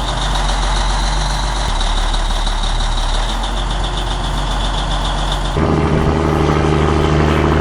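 Heavy diesel engine running steadily. About five and a half seconds in, the sound cuts abruptly to a different, louder engine with a stronger low hum.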